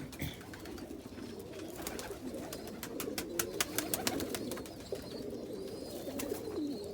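Domestic pigeons cooing in a continuous low, rolling murmur. A run of sharp clicks and taps comes through the middle.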